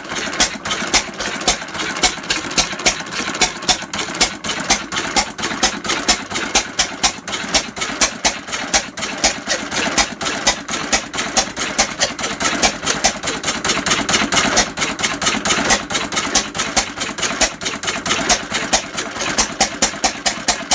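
Sattley 1.5 hp single-cylinder hit-and-miss stationary engine running, a steady train of sharp clicks and bangs several times a second. Louder strokes stand out about twice a second.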